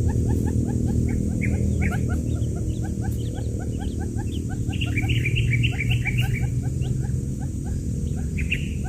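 Many newly hatched quail chicks peeping, a dense chorus of short chirps several a second, over a steady low hum.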